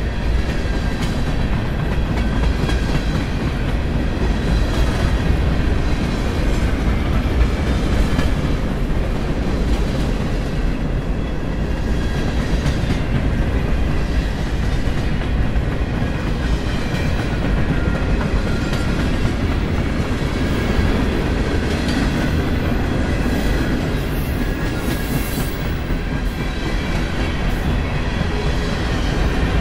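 Freight train cars rolling past, mostly empty centerbeam flatcars: a steady rumble of steel wheels on rail with rhythmic clickety-clack.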